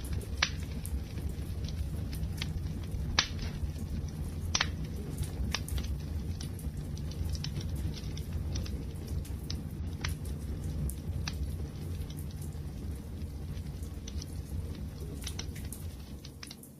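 Wood fire burning with a steady low rumble and irregular sharp crackles and pops, a handful of them loud.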